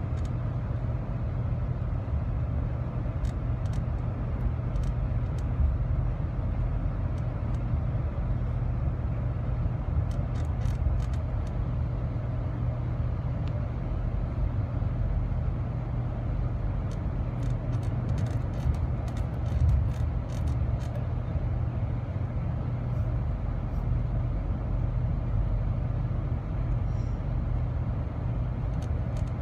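Steady low rumble and rolling noise of a moving passenger train, heard from inside its dome car, as a CN freight train of tank cars and covered hoppers passes on the next track. Faint ticks come and go throughout.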